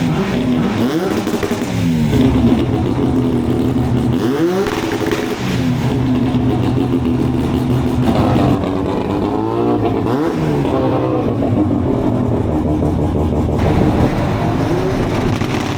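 Car engine revving repeatedly, its pitch rising and falling several times between steadier stretches.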